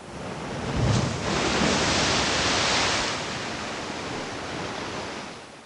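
Steady rushing noise, like surf or wind, that swells over the first second or so and fades out near the end.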